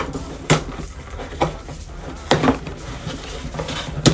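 Cardboard box and packaging being handled and pried open by hand, with a few sharp knocks and clicks about half a second, one and a half seconds and two and a quarter seconds in.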